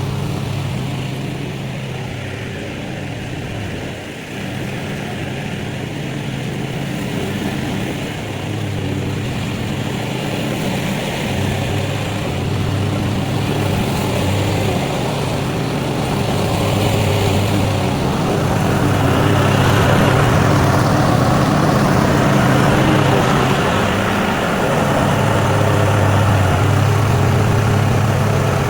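Small petrol engine running steadily. It grows louder and harsher about two-thirds of the way in.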